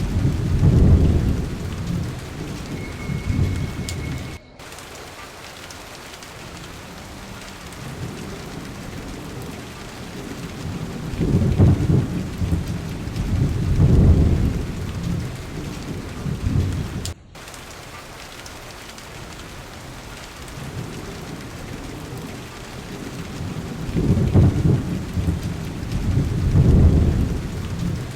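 Steady rain with rolling thunder, the low rumbles swelling up three times. The sound cuts out very briefly twice.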